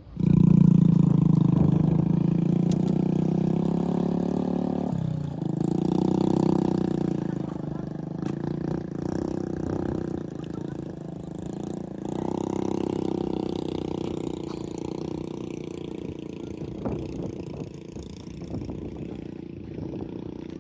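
Motorbike engine running close by, starting suddenly. About five seconds in its pitch drops and picks up again like a gear change, then it slowly fades as it moves away.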